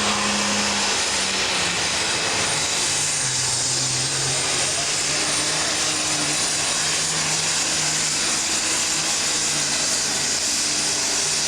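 Diesel super stock pulling tractor's turbocharged engine running flat out under load during a pull: a loud, steady engine drone under a strong high hiss.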